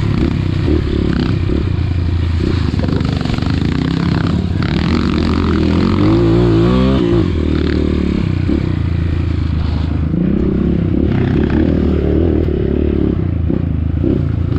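Trail motorcycle engine running, its pitch rising and falling as the throttle is worked, with a quick up-and-down revving about six to seven seconds in.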